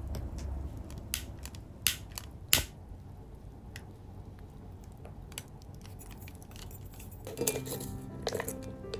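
Three sharp clinks of small hard objects in the first three seconds, then soft background music begins about seven seconds in.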